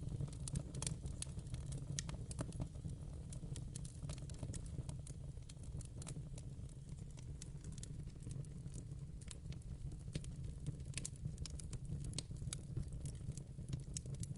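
Wood fire crackling in a fireplace: frequent irregular snaps and pops over a steady low rush of the burning flames.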